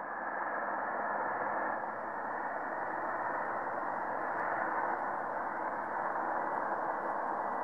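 Steady static hiss on an air traffic control radio frequency, with no voice on the channel. The hiss is thin and band-limited, as heard through a radio.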